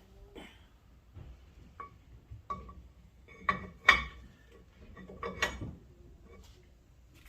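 Scattered metallic clinks and clanks of a new brake caliper being worked off its mounting bracket. The loudest clank comes about four seconds in.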